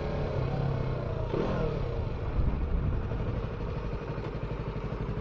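Motorcycle engine running steadily, with a brief rise and fall in revs about a second and a half in.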